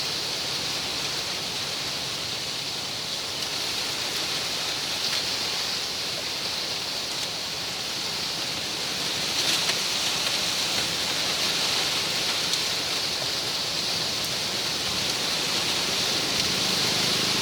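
Wind rustling through the stiff fan-shaped fronds of sugar palms (palmyra palms), a steady hissing rustle that swells slightly and falls back.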